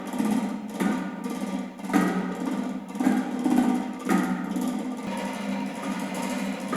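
A cotton ball, driven by a prepared DC motor, beats against the inside of a metal bucket 22 cm across. The bucket gives a steady, hollow, ringing drone, with uneven louder strikes about once a second.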